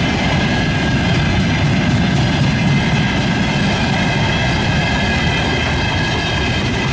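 Freight train wagons rolling past on the rails in a steady, loud rumble, with a set of high ringing tones from the wheels above it.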